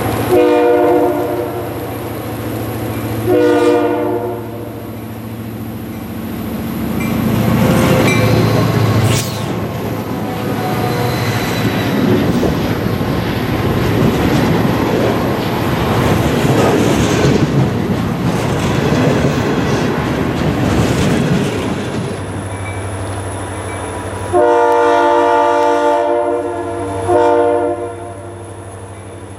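Freight train passing: the diesel locomotive's horn sounds twice, then the locomotive's engine and the rumble and clatter of freight cars rolling by on the rails. Near the end the horn sounds again, one long blast and a short one.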